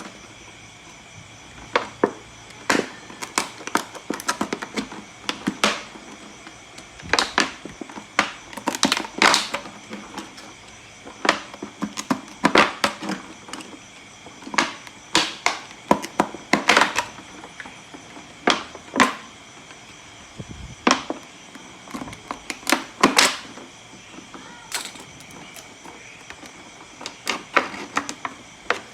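Plastic bottle being handled and cut by hand: irregular sharp clicks and short crackling bursts of stiff plastic.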